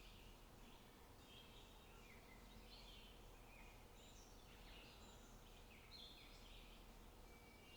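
Faint birdsong: many short chirps and trills, one after another, over a quiet steady background hiss.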